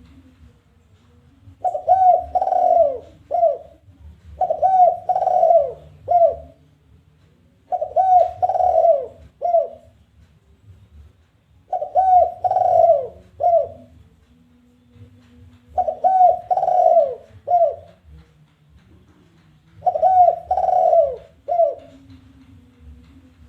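Spotted dove (tekukur) giving its challenge coo, a territorial call: six phrases, about one every four seconds. Each phrase is a few low coos ending in a short, separate last note.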